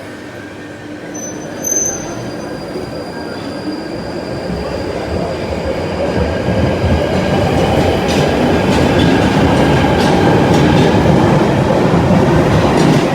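London Underground Northern line train, 1995 Tube Stock, pulling out of the station: its motors and wheels on the rails make a rumbling run that builds steadily louder, with a short high tone about a second and a half in.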